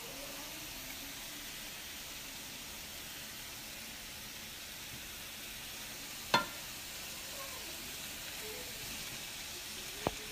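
Ground beef and diced vegetables sizzling steadily in a frying pan as they are stirred with a wooden spoon. A sharp knock about six seconds in and a smaller one near the end.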